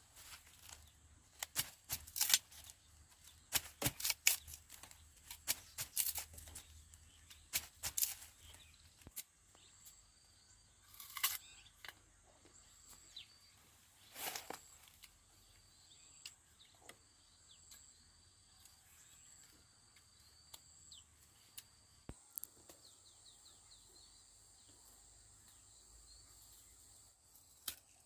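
Sugarcane being harvested by hand: a run of sharp cracks and snaps as stalks are cut and leaves torn off, coming thick and fast at first, then only now and then. Faint bird chirps and a steady insect drone run underneath.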